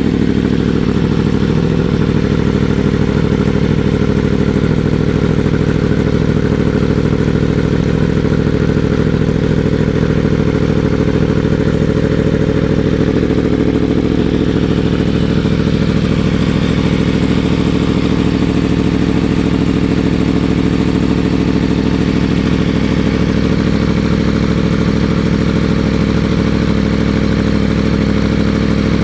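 Yamaha FZ-10's crossplane inline-four idling steadily through a Toce slip-on exhaust with a Danmoto cat delete, with no revving.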